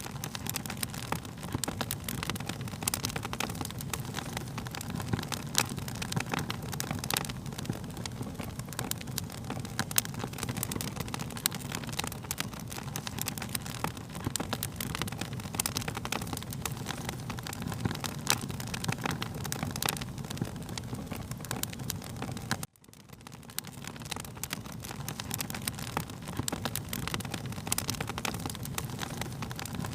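Wood fire crackling, with many sharp pops and snaps over a low rumble. The sound cuts out abruptly about 23 seconds in and swells back up within a second or two.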